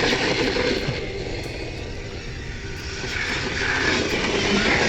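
Kyosho Blizzard RC snowcat's brushless motor running at high speed on a 3S LiPo, a high whine with drivetrain noise. It is strong at the start, eases off in the middle and swells again about three seconds in.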